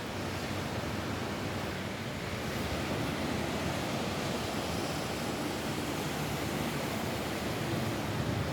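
Steady rain falling on a roof, an even hiss with no single drops or tones standing out.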